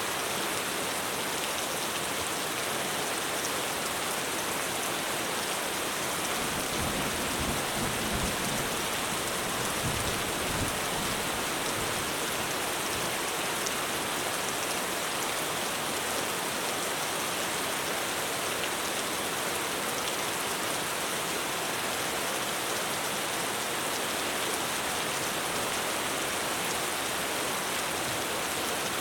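Heavy rain pouring steadily on a roof, a dense, even hiss. A low rumble of distant thunder swells and fades about seven to eleven seconds in.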